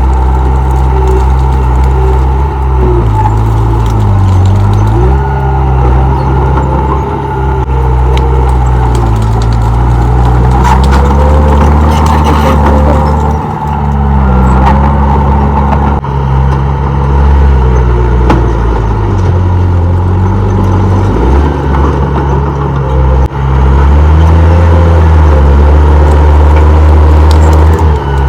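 Komatsu D31P bulldozer's diesel engine running hard, its pitch sagging and recovering several times as it takes load, over a steady high whine. A few knocks and clanks come about halfway through.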